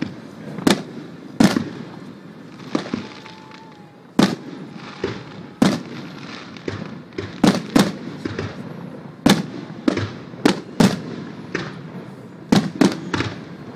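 Aerial firework shells bursting, a string of sharp bangs about once a second, sometimes two or three in quick succession, each trailing off briefly.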